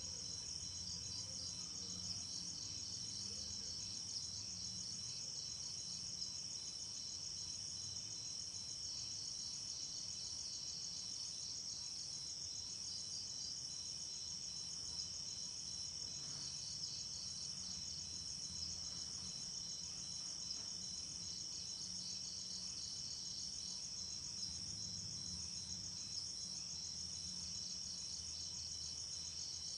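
Night insect chorus: a steady, high-pitched chirring with a second, evenly pulsing note running through it.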